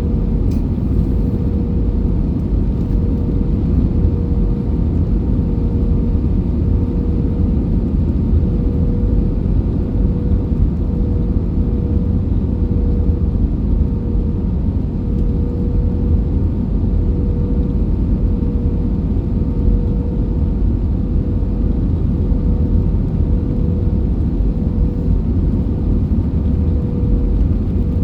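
Airbus A320 airliner noise: a steady low rumble with a constant mid-pitched hum over it.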